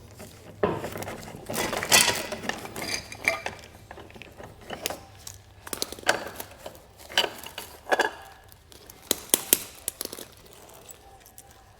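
Small loose metal parts and hardware clinking and knocking together as they are handled and sorted, with a stretch of rustling about half a second in.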